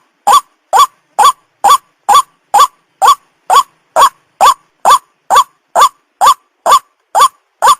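White-breasted waterhen (ruak-ruak) call used as a bird-trapping lure recording: one short upward-sweeping note repeated evenly about twice a second, every note alike.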